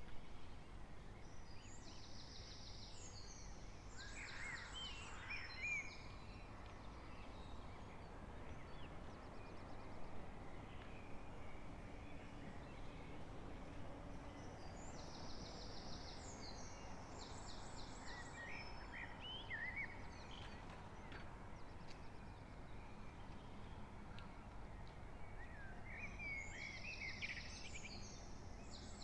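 A songbird's dawn song: three bouts of short, high twittering and trilled phrases, about every eleven to twelve seconds, over a steady low background rumble.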